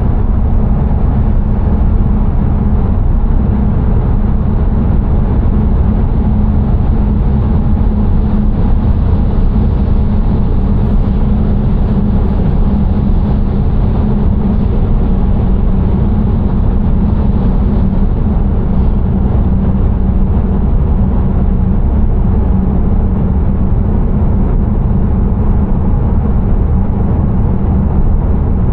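A car driving on the road: steady engine and road noise with no change in pace.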